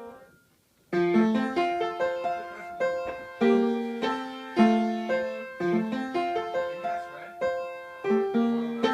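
Solo piano music: a melody over chords of struck, decaying notes, starting about a second in after a short pause.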